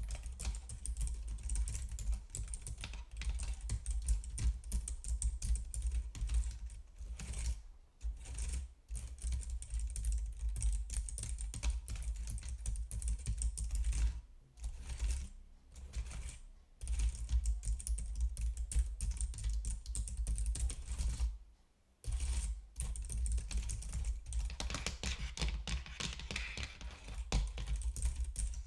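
Computer keyboard being typed on quickly, a steady stream of key clicks broken by a few brief pauses.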